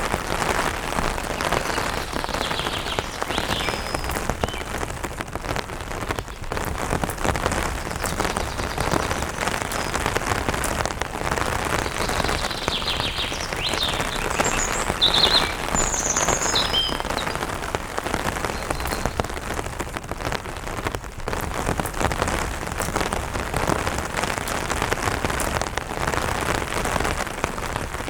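Steady rain falling on an umbrella's fabric, a dense run of fine drop hits. A few birds chirp high above it, a handful of calls early on and a cluster near the middle.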